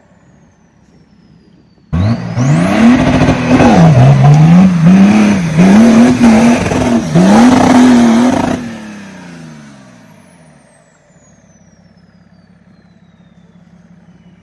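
Off-road vehicle's engine revving hard, its pitch rising and falling again and again as the throttle is worked on a climb. It starts abruptly about two seconds in, drops away with falling pitch about nine seconds in, and fades out.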